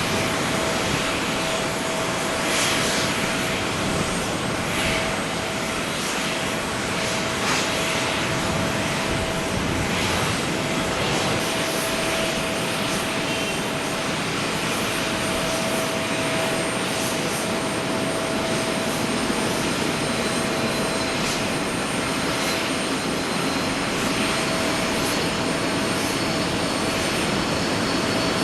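Airbus A321neo airliner's jet engines running steadily: a broad rush with a constant whine.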